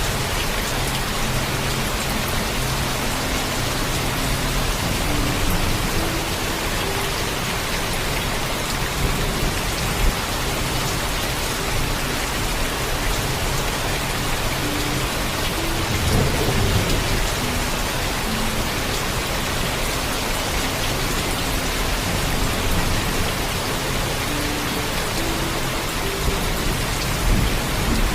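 Heavy, steady rain with thunder rumbling low underneath, the rumble swelling louder about sixteen seconds in. A single sharp tap about ten seconds in.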